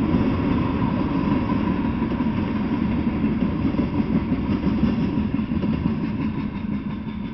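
Freight train cars rolling past on the rails: a steady rumble of steel wheels on track, growing fainter near the end.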